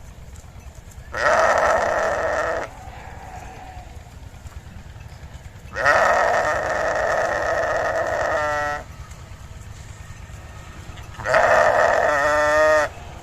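A sheep bleating three times: harsh, drawn-out calls, the second one longest, the last two ending in a wavering, pitched quaver.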